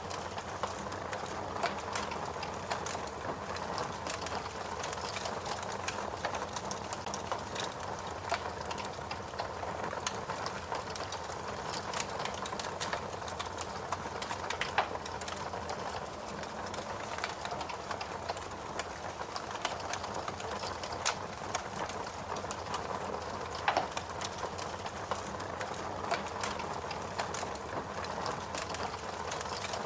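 Fire crackling: a steady hiss with a constant scatter of small snaps and a few louder pops.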